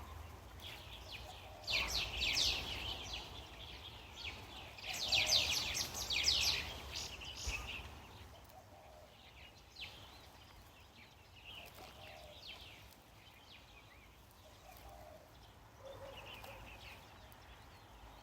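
Small birds chirping in quick bursts of rapid high chirps, loudest about two seconds in and again around five to six seconds in, then fainter scattered calls over a low outdoor hum.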